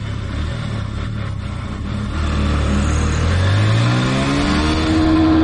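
Honda Livo motorcycle's single-cylinder engine under hard acceleration, heard from the rider's seat with wind rushing past. A little past two seconds in, its pitch climbs steadily as the bike gathers speed in gear, then levels off near the end.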